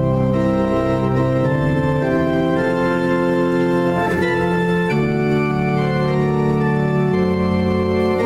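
Church organ playing a hymn in sustained chords that change every second or so over a deep bass line.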